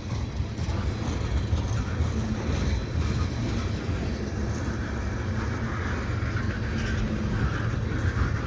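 Freight cars of a CN manifest train rolling past: a steady low rumble of steel wheels on the rails.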